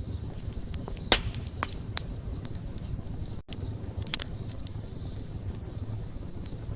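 Wood campfire burning with a low steady rumble, the wood crackling and popping in scattered sharp snaps, the loudest about a second in. A momentary dropout in the sound just past halfway.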